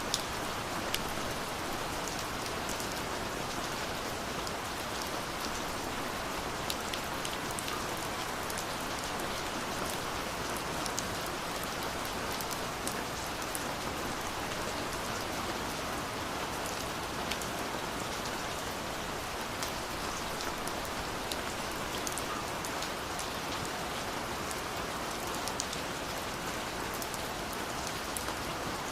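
Steady rain falling: an even, constant hiss with scattered sharper ticks of individual drops striking close by.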